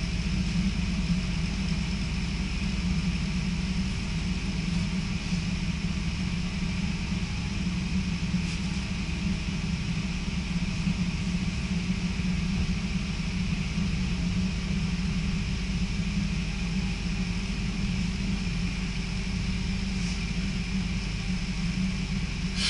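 Electric passenger train running along the line, heard from inside the carriage: a steady, even rumble with a faint constant hum over it.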